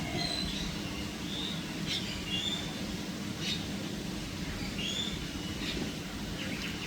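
Birds chirping and calling: short high whistled notes every second or so, with a few sharp calls, over a steady low background hum.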